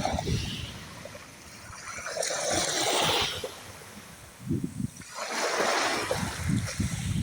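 Small sea waves washing in on the shore, two swells of hissing wash a few seconds apart, with wind buffeting the microphone in low rumbles between them.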